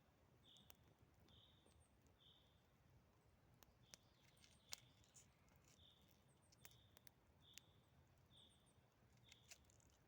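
Faint birdsong: one bird repeats a short high note a little more than once a second, with an occasional quick, higher triple chirp. Scattered sharp clicks sound now and then.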